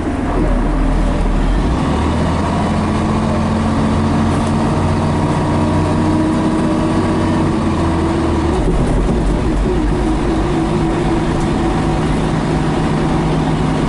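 Diesel engine of a 1976 Scania BR111H bus with MCW Metropolitan body, running steadily while under way. The engine note changes about eight and a half seconds in.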